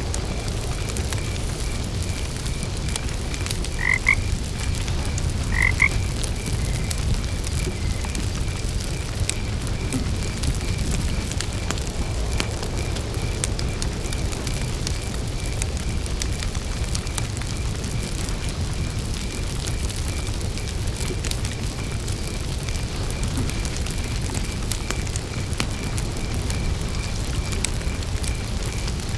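A frog croaks twice, about four and six seconds in, over the steady crackle and low rumble of a wood campfire. A cricket chirps in an even, steady pulse throughout.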